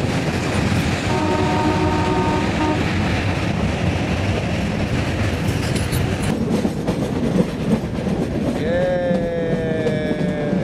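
Meter gauge passenger train running, heard from an open coach door: a steady rumble of wheels and rushing air, with a couple of sharp rail clacks. The locomotive's horn sounds for under two seconds about a second in, then gives a longer blast near the end that rises at the start and sags slightly in pitch.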